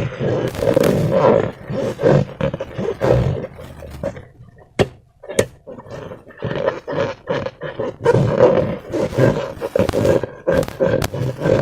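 Rubber balloons being squeezed and rubbed by hand, squeaking and groaning in irregular pulses, with a couple of sharp clicks about five seconds in.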